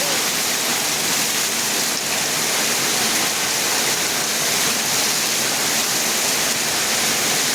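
Heavy rain with water pouring down like a waterfall, a steady, dense hiss that does not let up.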